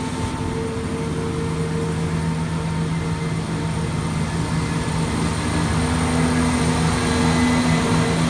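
Diesel train engine running with a steady drone, growing gradually louder.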